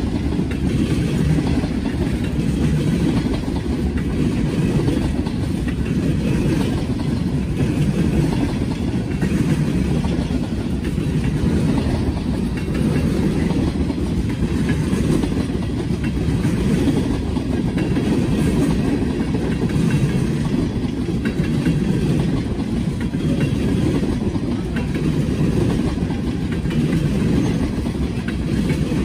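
Norfolk Southern train's railcars rolling past, a steady heavy rumble of wheels on rail.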